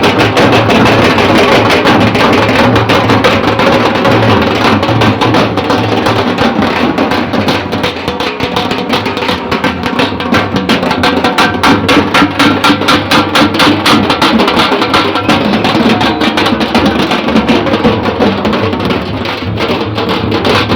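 A danka drum group playing: loud, fast, dense drumming that keeps going without a break.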